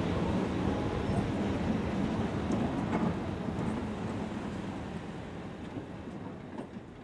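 Rumble of a freight train, fading steadily as it moves away, with a few faint clicks and rattles in it.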